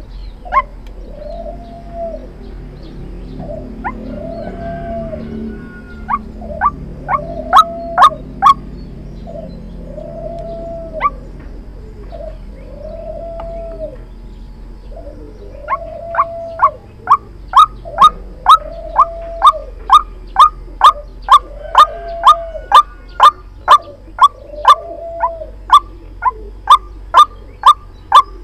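White-breasted waterhen calls used as a trapping lure: an arching call repeated about every second and a half, over sharp, short clicking notes. The clicks come in scattered groups at first, then settle into a fast steady run of about two a second in the second half.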